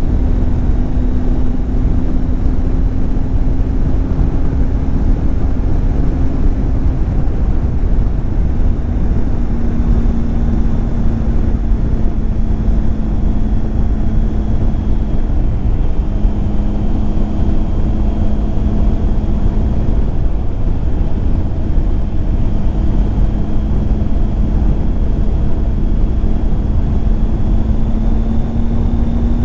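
Triumph Tiger 800 XCX's three-cylinder engine running steadily at cruise under a constant rush of wind noise. Its pitch drops slightly about seven seconds in, dips again midway, then climbs gradually near the end.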